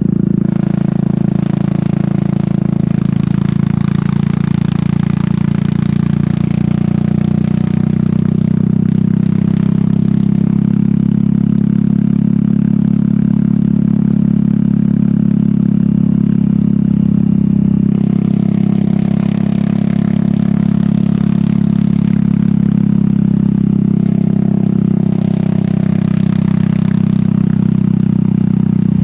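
Royal Enfield Meteor 350's single-cylinder engine running steadily at cruise through an aftermarket sport exhaust, a deep even thump with little change in pitch.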